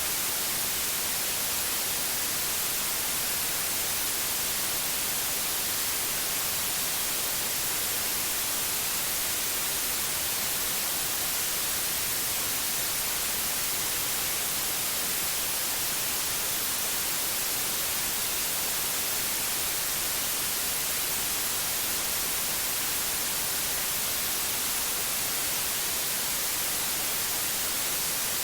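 Pure white noise: a steady, unchanging hiss, strongest in the high frequencies.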